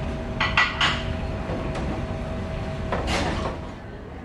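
Three quick clinks, like dishes or cutlery, about half a second in, and a louder clatter around three seconds, over a steady low hum.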